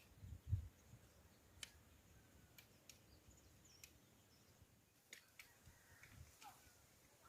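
Near-quiet forest ambience. Two soft low thuds come in the first second, then scattered small clicks and a few faint bird chirps.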